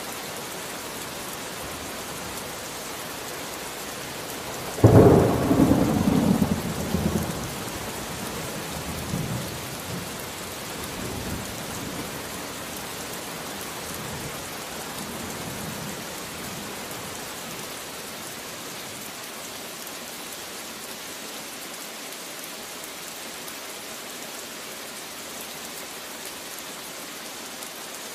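Steady rain with a loud thunderclap about five seconds in, its rumble rolling on and fading over several seconds.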